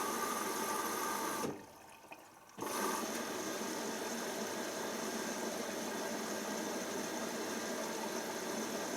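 Hoover DYN7144XD1 washing machine running: a steady motor whir with a high whine over it. It drops away suddenly about a second and a half in, then comes back after about a second.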